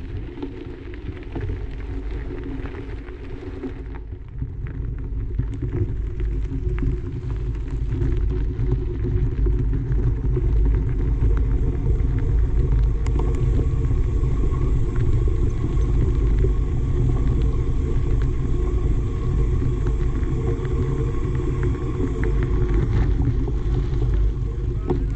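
Low wind rumble buffeting the microphone, with tyre noise from a mountain bike rolling over a dirt trail. It steps up in loudness about four seconds in and again around eight seconds.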